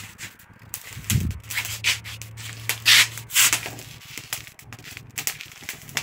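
Grass stalks rustling and scraping over a concrete floor as they are gathered and handled, in irregular short bursts.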